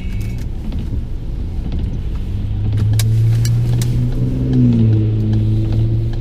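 Car engine and road rumble heard from inside the cabin, with a steady engine hum that grows louder about halfway in and shifts in pitch, and a few sharp clicks in the middle.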